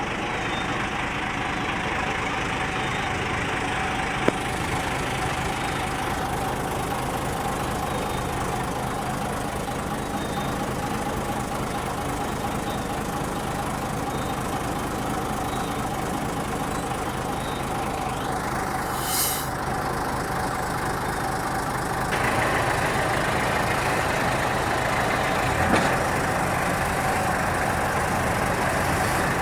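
Heavy diesel earthmoving machinery running steadily, with a short high-pitched squeal a little past the middle and the engine getting louder about three-quarters of the way in.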